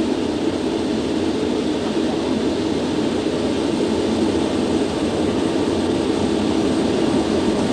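Concorde's four Olympus 593 turbojets at full takeoff power during the takeoff roll, heard on the flight deck as a loud, steady, deep roar mixed with rolling and airflow noise as speed builds toward V1.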